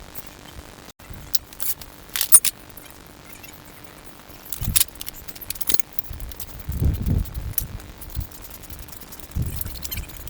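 Metal clinking and rattling of tools or parts being handled: a cluster of sharp clinks about two seconds in, more a few seconds later, and dull low thumps in between and near the end.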